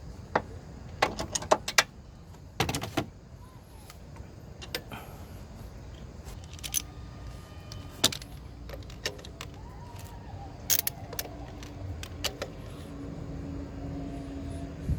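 Metal tools clinking and knocking: a series of sharp clicks and clanks, in quick clusters early on and scattered after.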